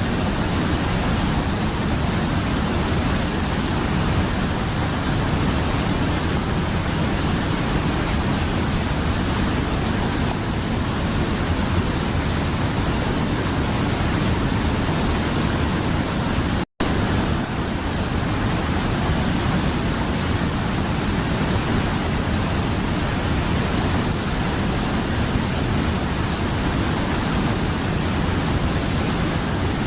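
Mountain river rushing over rocks: a steady, full-bodied roar of flowing water. The sound drops out for an instant about two-thirds of the way through.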